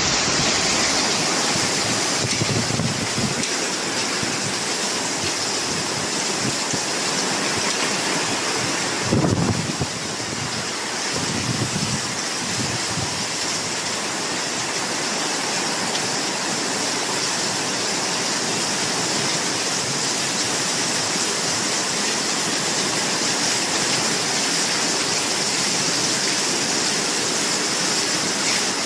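Heavy rain pouring down in a steady, even hiss, with a brief low thump about nine seconds in.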